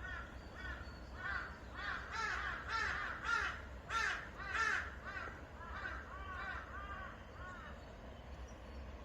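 Forest birds calling in a quick series of short rising-and-falling notes, about three a second, growing louder toward the middle and then tailing off, over a steady low rumble.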